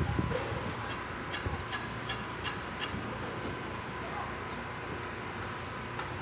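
Steady background noise with a quick run of about seven light, sharp taps over roughly two seconds, each with a short high ring.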